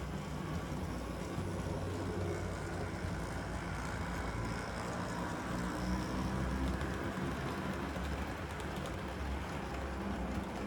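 HO-scale six-axle DCC model locomotive running on a layout, pulling freight cars: a steady low motor hum with the wheels rolling along the track.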